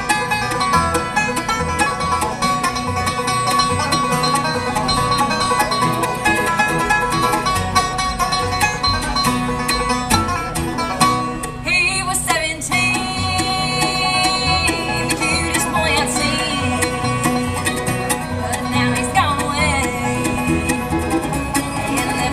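Bluegrass band playing, banjo to the fore over guitar, mandolin, fiddle and bass, with a steady beat throughout.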